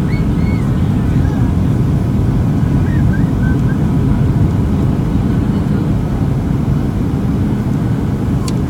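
Cabin noise inside a Boeing 737-700 during arrival: a steady low rumble of airflow and the CFM56-7 turbofan engines.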